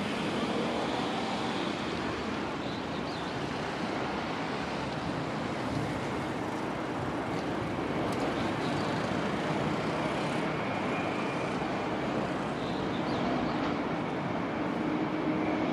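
Steady rushing noise of road traffic, unbroken throughout.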